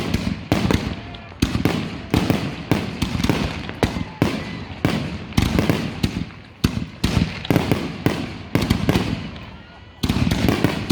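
Consumer fireworks going off in rapid succession: sharp bangs and reports, several a second, overlapping over a low rumble. The barrage thins out about nine seconds in, then starts again with a fresh volley.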